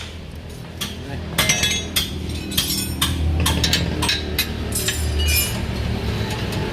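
Steel hand tools clinking and tapping on metal suspension parts: an irregular series of sharp metallic strikes, some ringing briefly, over a steady low hum.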